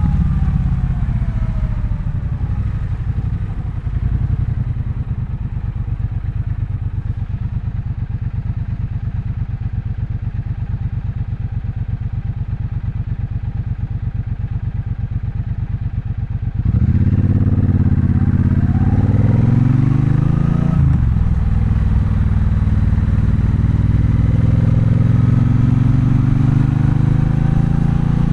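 Triumph Bonneville Bobber's 1200 cc parallel-twin engine idling with a steady low rumble for about sixteen seconds, then pulling away: it gets louder and its pitch climbs, breaks at a gear change about four seconds later, and climbs again.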